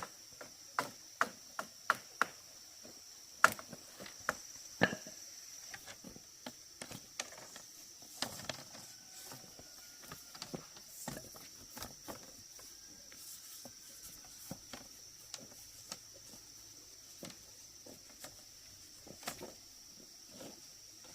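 Irregular sharp knocks and taps, closely spaced and loudest in the first five seconds, then sparser, over a steady high-pitched drone.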